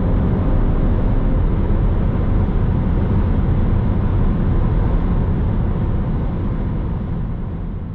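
Cabin sound of a BMW M340i with its 3.0-litre turbocharged straight-six in SPORT+ mode, driving: a steady low engine drone and road rumble, with a faint engine tone in the first second or so. The sound fades out near the end.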